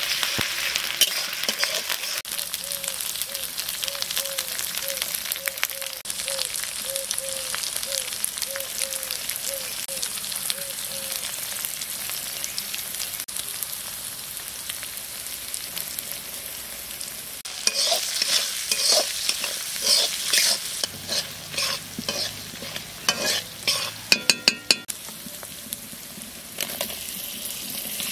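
Vegetables and spices sizzling in hot oil in a metal kadai while a spatula stirs and scrapes them, with a run of faint evenly spaced squeaks, about two a second, in the first half. Past the middle come louder irregular metallic clinks and scrapes of a small steel bowl being worked by hand, including a quick rattle of ringing clicks. The sizzling comes back near the end.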